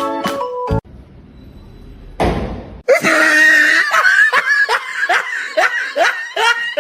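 A person laughing hard, in a fast run of short repeated peals of about three a second, starting after a short noisy burst about two seconds in.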